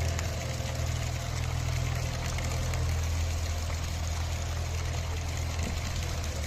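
Heavy rain falling as a steady hiss, over a steady low rumble that is the loudest part of the sound.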